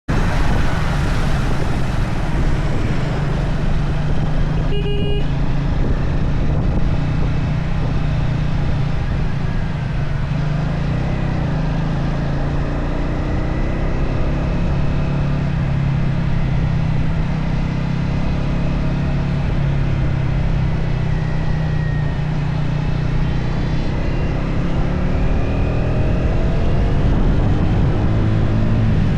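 Triumph Speed 400's single-cylinder engine running steadily as the motorcycle is ridden, under a continuous rush of wind noise. A short beep sounds once about five seconds in.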